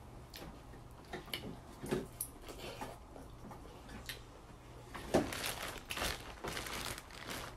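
Close-up chewing with soft mouth clicks and smacks, then a plastic bag of seafood boil rustling as a hand reaches into it about five seconds in.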